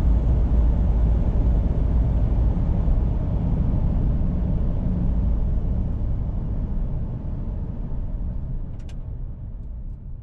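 2019 Mitsubishi Triton dual-cab ute driving: a steady low rumble that gradually fades over the last few seconds, with a brief click near the end.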